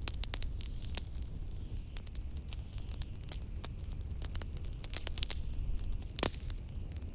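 Wood fire crackling in a fireplace, with frequent sharp pops and one louder pop about six seconds in, over a steady low rumble of blizzard wind.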